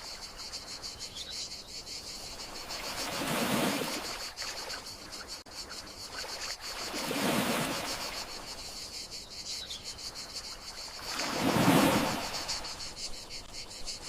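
Gentle sea waves washing in, three swells about four seconds apart, over a steady, high trill of crickets.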